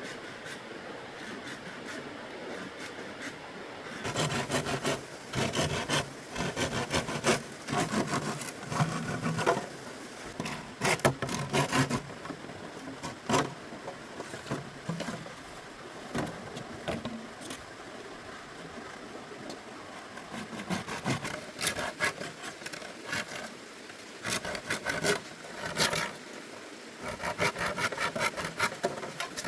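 Wood or bamboo being worked by hand: irregular bouts of scraping and rasping strokes with sharp clicks, starting about four seconds in after a steady faint hiss.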